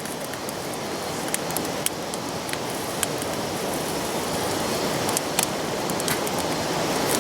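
Wood fire burning in a small Firebox stove: a steady rushing hiss with scattered sharp crackles and pops.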